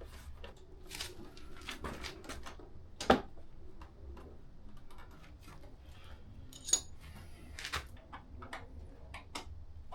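Hands handling metal parts and tools, making scattered clicks and knocks. There is one sharp knock about three seconds in and a brief metallic ring a few seconds later.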